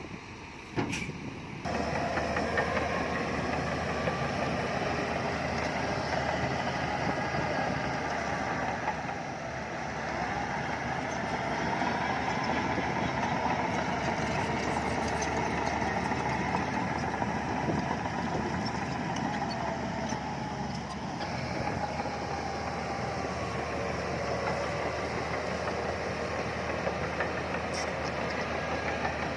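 Heavy diesel earthmoving machinery running steadily under load. It jumps up in loudness about two seconds in and holds there, with slight dips in level along the way.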